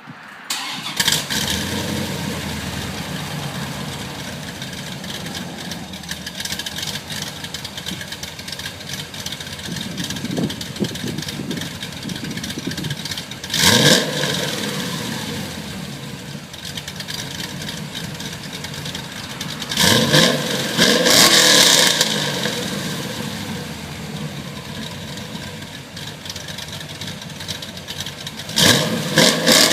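1994 Corvette LT1 5.7-litre V8 with an LT4 Hot Cam kit, breathing through Stainless Works headers, X-pipe and exhaust, starting up about a second in and then idling, with three quick revs: one about halfway, a longer one about two-thirds through, and another near the end.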